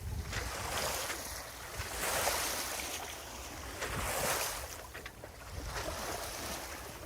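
Water rushing and splashing along a sailboat's hull under way, swelling with each passing wave about every two seconds, with wind buffeting the microphone.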